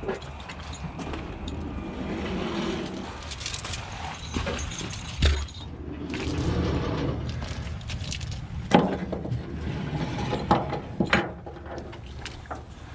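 An engine runs steadily in the background while metal clanks several times, with the loudest clank about nine seconds in. The clanks are heavy recovery chains and hooks being handled during rigging.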